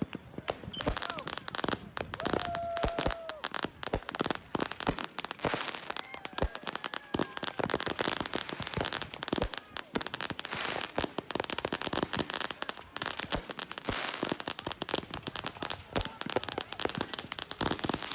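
Fireworks and firecrackers going off in a dense, rapid string of cracks and pops.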